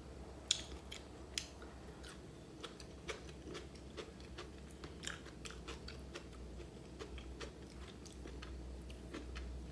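Faint chewing of a mouthful of chicken biryani, with many small scattered mouth clicks and smacks.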